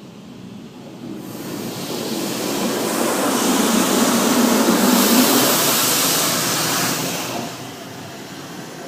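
Automatic car wash equipment passing over the car, heard from inside the cabin: a loud rushing that swells, peaks midway and fades away.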